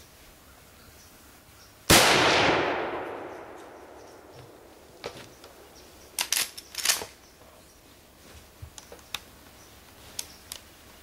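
A single shot from a Glenfield/Marlin 30A .30-30 lever-action rifle about two seconds in, its report echoing away over about two seconds. A few seconds later come several sharp metallic clacks, the lever being worked to eject the case and chamber the next round, then a few faint ticks.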